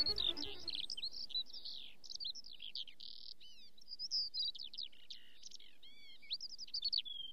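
Birds chirping and singing in a quick, busy run of short, high whistled notes and swoops, some overlapping. The tail of background music fades out in the first second.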